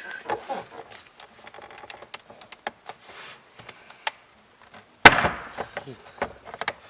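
Plastic glove box in a Nissan 370Z dashboard being forced out past its retaining clips: small clicks and creaks, then a loud snap about five seconds in as it pops free, followed by rattling plastic.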